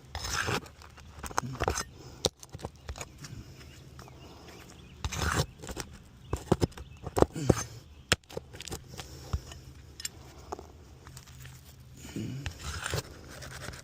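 Irregular scraping, crackling and sharp taps of handling and footsteps on an asphalt shingle roof, with a few louder scrapes.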